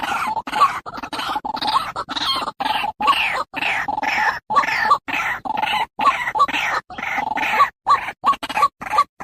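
Animal calls in a quick, continuous series of short falling cries, about two a second, broken by abrupt silent gaps.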